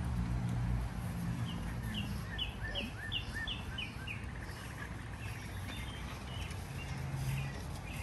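A bird singing outdoors: a quick run of repeated two-note phrases, about two or three a second, from around a second and a half in to about four seconds in, over a low background rumble.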